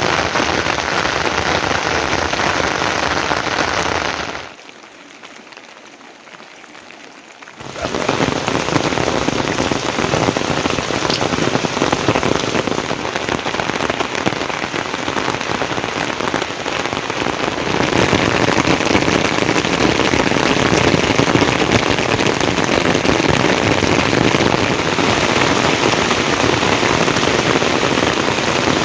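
Heavy rain falling in a steady, dense hiss, broken by a quieter stretch about five seconds in before the downpour sound returns at full level.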